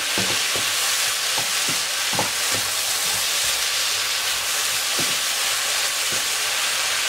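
Sliced mushrooms, peppers, onions and tomatoes sizzling steadily over high heat in a nonstick frying pan, with a wooden spoon scraping and knocking against the pan at irregular intervals as they are stirred.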